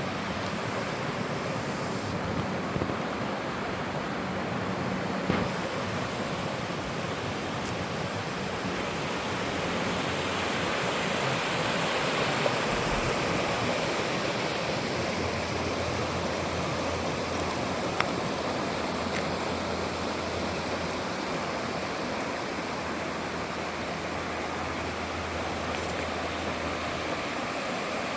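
Clear stream water flowing and splashing steadily, a constant rush with a few small sharp ticks.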